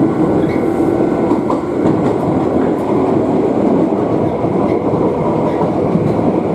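Electric commuter train running, heard from inside the car: a steady rumble of wheels on rails with some clacking over the rail joints.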